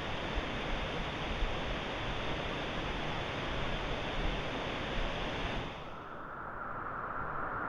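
River whitewater rushing steadily. About six seconds in the sound abruptly turns duller, with a narrower hiss left.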